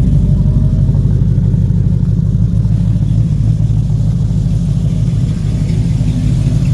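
A car engine idling nearby with a loud, steady low rumble.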